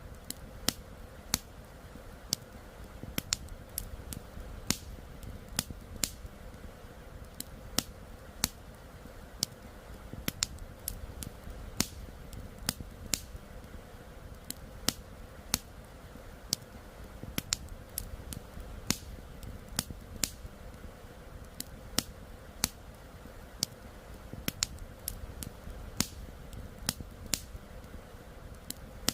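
Campfire crackling with sharp irregular pops, about one or two a second, over a steady low rush of flowing river water.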